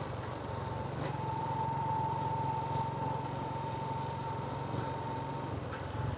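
Motorbike engine running steadily while riding, a low even hum with a steady high whine over it from about a second in until near the end.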